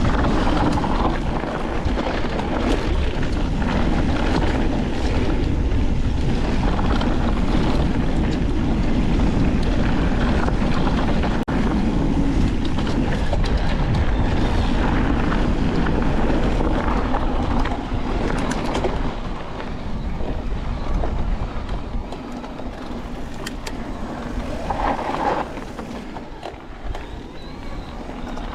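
Niner WFO e9 electric mountain bike riding a rough dirt trail: a steady rush of wind on the microphone with the clatter and rattle of tyres, chain and frame over the ground. It is loudest for the first two-thirds, then eases off.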